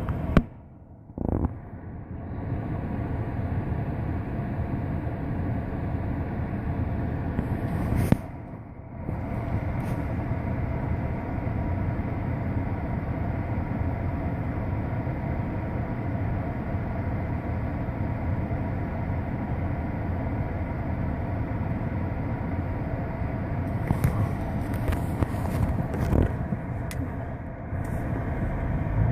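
Steady low rumble of motor-vehicle traffic, with brief drops in level about a second in and about eight seconds in.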